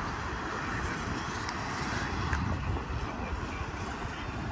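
Empty intermodal freight cars of a train rolling along the rails: a steady noise of steel wheels on track.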